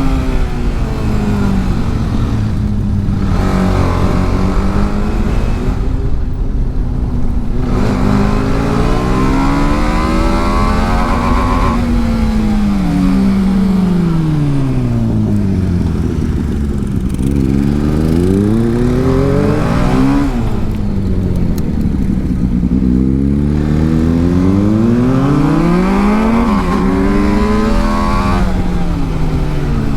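TVS Apache RR310's single-cylinder engine at full track pace, its revs climbing hard and then dropping several times as the bike accelerates and slows.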